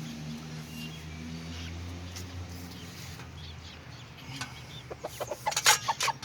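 Bantam chickens clucking in short, quick calls, starting about four and a half seconds in and getting louder near the end, with sharp clicks among them.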